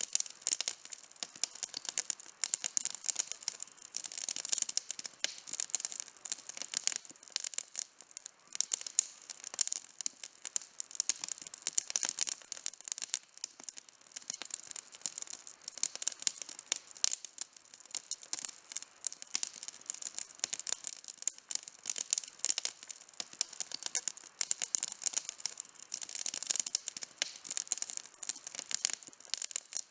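Campfire burning, with a dense, continuous run of sharp high-pitched crackles and pops from the burning wood.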